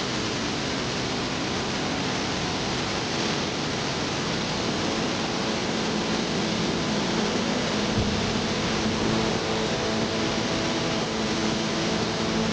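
Steady rushing of a flooded river, an even noise with no breaks. A faint low hum joins about a third of the way in.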